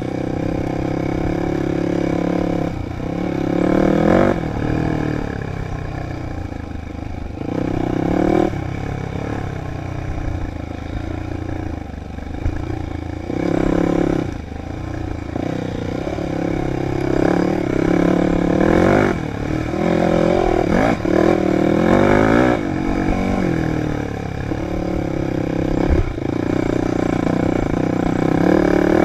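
Dirt bike engine revving up and falling back over and over as the throttle is worked along a trail, with a sharp knock near the end.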